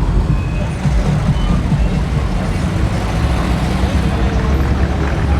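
Car engines running in a steady low rumble as classic cars cruise along the street.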